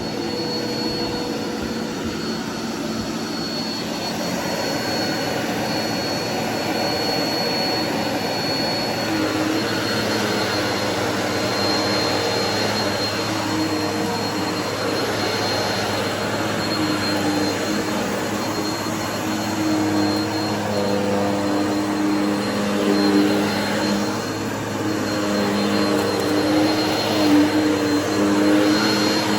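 Bissell vacuum cleaner running steadily, with a high, constant whine. From about a third of the way in, a lower hum joins it and wavers up and down in pitch.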